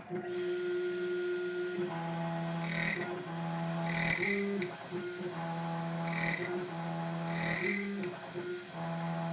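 ITL 9700A code key-cutting machine running an automatic cut on a Kwikset key: a steady motor whine that steps between pitches as the carriage moves, with a louder harsh burst every second or two as the cutter bites into the key.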